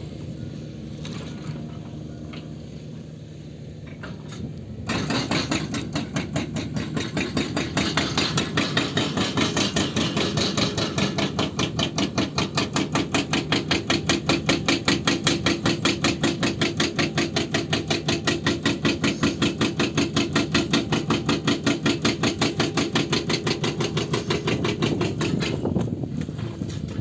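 Excavator running, then about five seconds in a hydraulic breaker (rock hammer) starts striking in a rapid, even series of blows, keeping up for about twenty seconds before stopping near the end.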